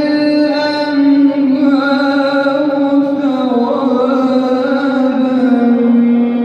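A male reciter chanting the Quran in melodic tajweed style, holding one long drawn-out phrase that bends slowly up and down in pitch without a break.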